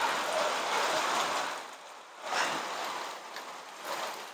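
Heavy rain pouring down on a rooftop terrace, a rushing hiss that swells twice and eases near the end.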